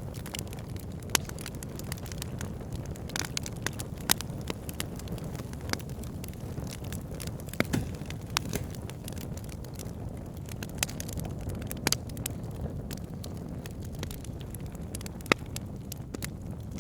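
Wood fire crackling: irregular sharp pops and snaps of burning wood, a few much louder than the rest, over a steady low rumble.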